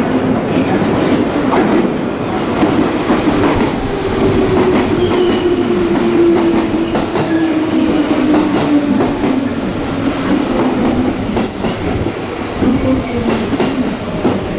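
Electric commuter train running along the platform, its wheels clicking over rail joints, with a motor whine that falls slowly in pitch as it slows. A brief high squeal comes near the end.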